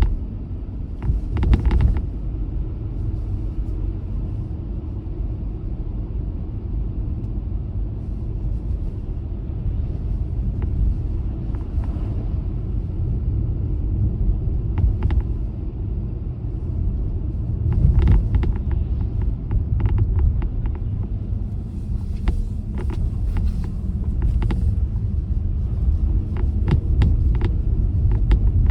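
A car being driven on roads after a snowstorm: a steady low rumble of tyres and road noise, with scattered sharp clicks and knocks in short clusters.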